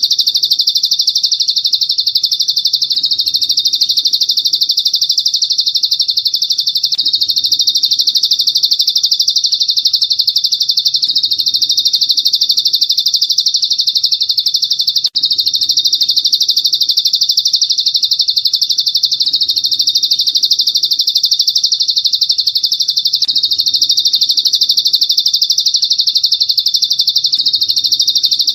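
Songbird masteran recording: one bird's continuous, high-pitched, very rapid chirping trill, looped without pause, played to train caged songbirds. It cuts out for an instant about halfway through.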